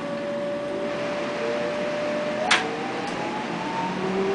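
Train running, heard from inside the carriage: a steady running noise with a few drawn-out whining tones that slowly slide in pitch. One sharp click comes a little past halfway.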